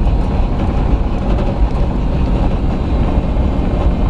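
Steady low rumble of road and engine noise inside a moving vehicle's cabin while driving.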